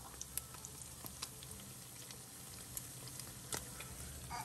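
Slices of beef loaf frying in oil in a pan: a faint steady sizzle with scattered small pops.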